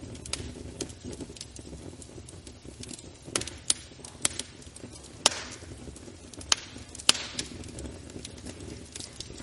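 Wood fire burning in a fireplace: a steady low rumble of flames with irregular sharp crackles and pops, the loudest clustered between about three and seven seconds in.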